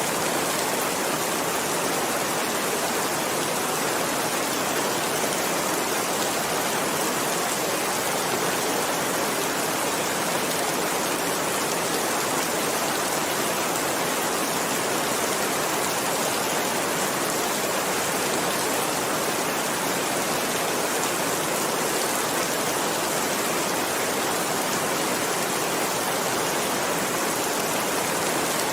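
Continuous rainfall, a steady even hiss that holds the same level throughout.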